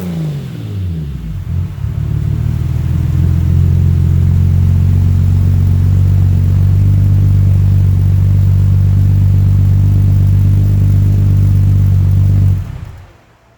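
Exhaust of a BMW E30 M3 with a swapped-in S38 straight-six: the revs fall back from a blip in the first second or so, then the engine settles into a steady idle. It shuts off about a second before the end.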